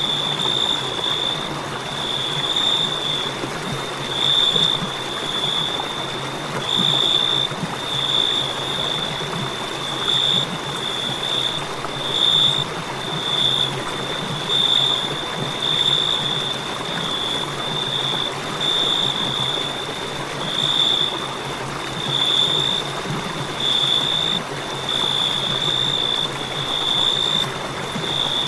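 Crickets chirping: a continuous high-pitched trill that swells and fades every second or two, over a steady hiss.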